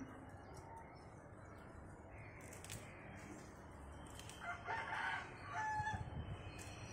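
A bird calling once, a call of about a second and a half starting some four and a half seconds in and ending on a short held note, over a faint steady outdoor hiss.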